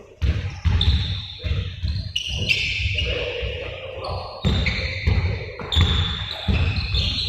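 Basketballs bouncing repeatedly, with short high squeaks.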